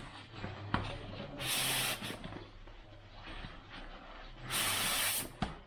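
Nylon sleeping bag and stuff sack being handled and pulled open: two short hissing rustles of fabric, about a second and a half in and near the end, with a few sharp clicks.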